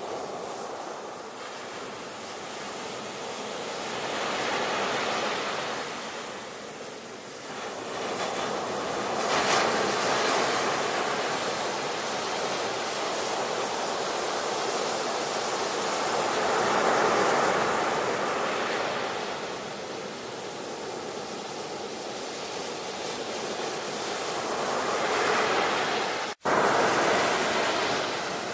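Ocean surf: waves breaking and washing in, swelling and ebbing every several seconds. The sound cuts out for a split second near the end and comes back louder, like a splice in the recording.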